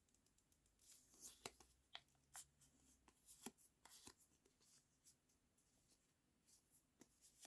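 Near silence, broken by faint scattered clicks and rustles of paper being handled, mostly in the first half.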